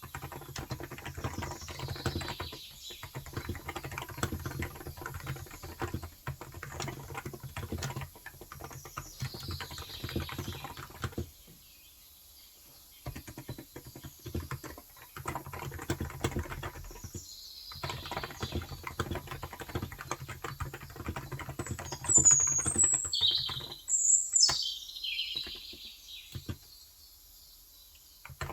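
Rapid typing on a Cox Endeavour electro-capacitive tenkeyless keyboard with 35 g switches, in runs of keystrokes broken by short pauses. A bird chirps faintly now and then, and several loud, high chirps come near the end.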